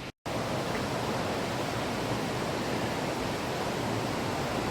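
Steady rushing of a large waterfall: an even wash of falling water with no pitch or rhythm, after a brief dropout just after the start.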